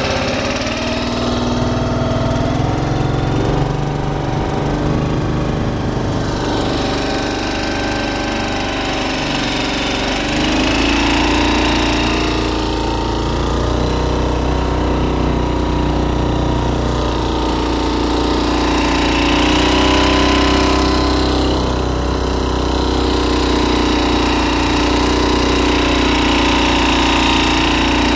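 Long-tail shallow-water boat motor (Ermak-S15 mud motor) running continuously under way, its engine speed picking up about ten seconds in and shifting again a couple of times later.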